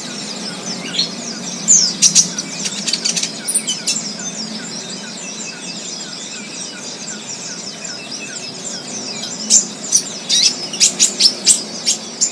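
Several wild birds chirping and calling together in a busy chorus of short, high notes. There is a burst of rapid sharp notes about two seconds in and another near the end, with a soft, regularly repeated lower note in between.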